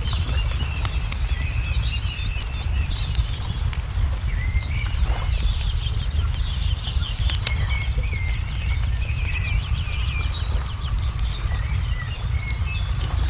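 Layered ambience of a crackling wood fire and birdsong: scattered sharp pops and crackles, and many short chirps and trills from several birds, over a steady low rumble.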